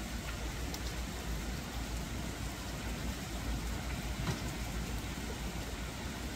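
Steady rain falling on a wet street, an even hiss with a couple of faint ticks, over a low rumble.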